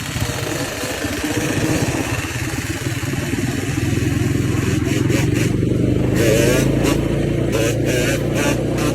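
Yamaha Banshee 350's twin-cylinder two-stroke engine running, getting louder a few seconds in and rising in pitch a little past the middle as it is revved.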